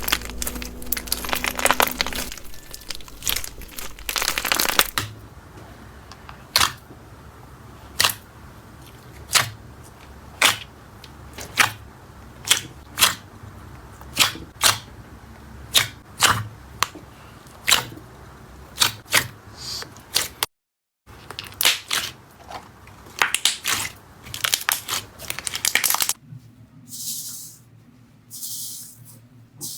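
Slime being pressed and worked by hand: dense crinkly crackling for the first few seconds, then a steady run of sharp pops and clicks about one a second. There is a brief cut to silence about twenty seconds in, and softer hissing squishes near the end.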